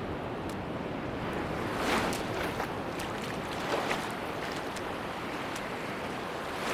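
Sea surf washing onto a beach: a steady rush of water that swells about two seconds in and again near four seconds as waves break, with scattered faint clicks.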